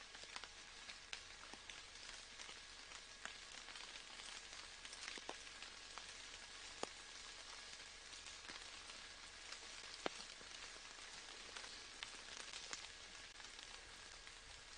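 Faint, steady rain: an even hiss with scattered single drops ticking through it, two sharper drops about halfway and two-thirds of the way through.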